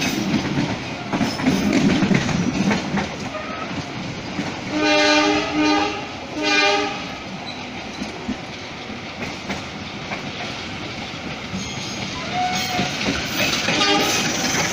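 Moving passenger train heard from on board: steady rolling noise with wheels clacking over the rails. A train horn sounds twice about five seconds in, a blast of about a second and then a shorter one.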